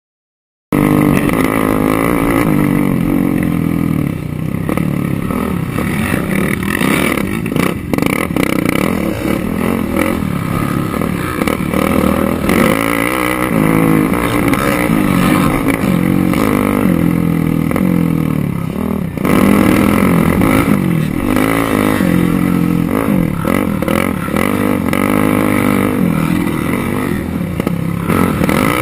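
Several racing quad bikes running hard, their engines revving up and down as they accelerate and back off. The sound starts abruptly under a second in.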